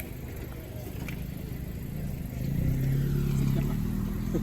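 A Honda car's engine running through its stock exhaust with the mufflers still on. About halfway through, the engine note gets louder and steadier and then holds there.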